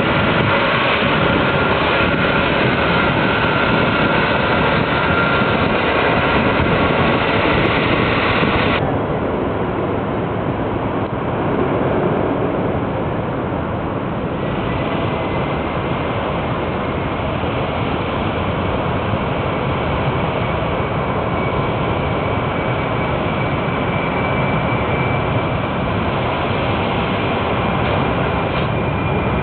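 Boeing 767-300 twin jet engines at takeoff power: a steady heavy roar with high whining tones. The whine drops out abruptly about nine seconds in. Later a faint whine slowly rises in pitch under the roar.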